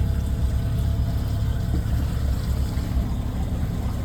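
Boat's outboard motor running at a steady speed, a continuous low rumble with a faint steady hum above it, heard from on board.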